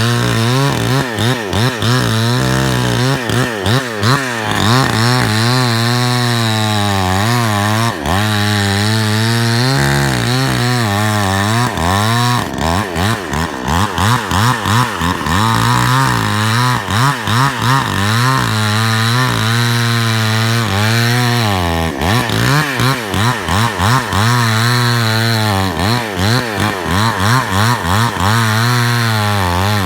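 Chainsaw running and cutting wood, the engine pitch rising and falling over and over as it revs and takes load.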